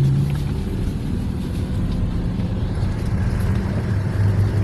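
Car engine running with a low steady hum and tyre rumble as the car drives slowly over a rough, rain-washed dirt track; the engine note drops about four seconds in.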